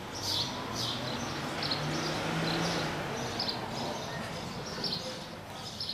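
Small birds chirping, short high chirps about every half second, over a rushing outdoor noise that swells during the first three seconds and then eases.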